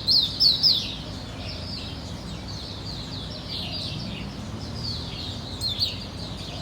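Pet bird chirping: a quick run of short, falling chirps, loud for about the first second, then softer chirps repeating, with a louder pair near the end.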